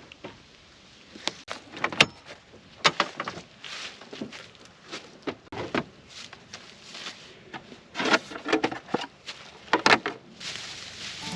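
Irregular clicks and knocks of objects being handled and set down, with a few louder sharp knocks.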